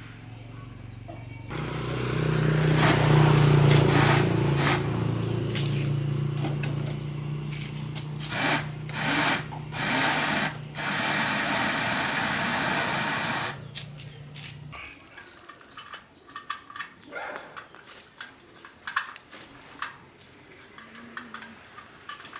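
An electric motor hums steadily while a spray gun hisses in several short bursts and then one longer burst. The motor cuts off near the end.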